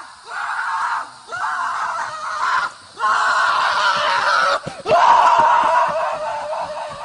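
Four long screams, each lasting one to two seconds, with short breaks between them.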